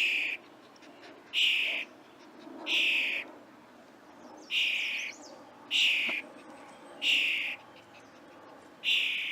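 A bird's buzzy call repeated seven times, each about half a second long and spaced a little over a second apart, sounding like a strange ringing.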